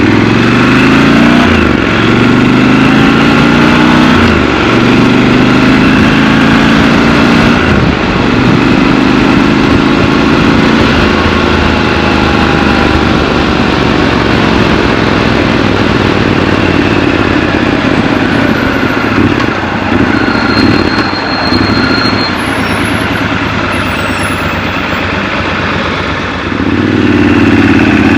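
Triumph Scrambler 1200 XC's 1200 cc parallel-twin engine heard from the saddle while riding: it pulls up through the gears, pitch climbing in steps, for the first several seconds. It then settles into a steadier run and picks up again near the end.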